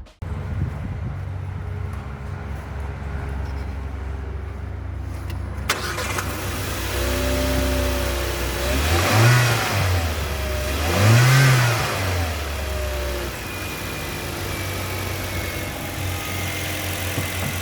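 A 2021 Haval Jolion's 1.5-litre turbocharged four-cylinder petrol engine idling steadily. It is revved up and let fall back twice, about nine and eleven seconds in, then settles back to idle.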